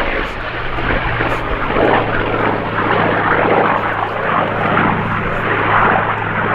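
Grumman F8F Bearcat's Pratt & Whitney R-2800 radial engine and propeller in flight during a display: a loud, steady drone with one low tone held throughout.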